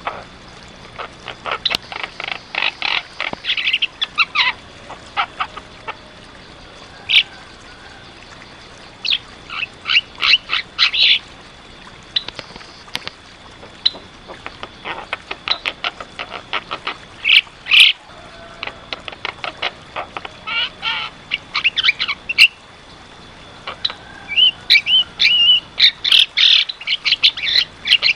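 Javan myna (jalak kebo) in full song: bursts of rapid clicking, harsh chattering and short squeaky whistled notes, separated by short pauses. The densest run comes near the end.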